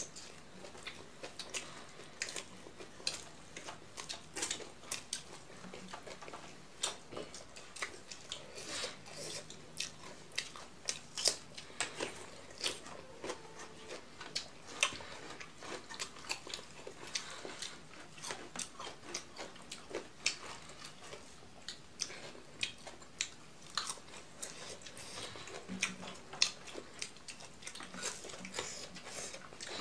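Close-miked chewing of rice and greens eaten by hand, with many sharp, irregular mouth clicks, several a second.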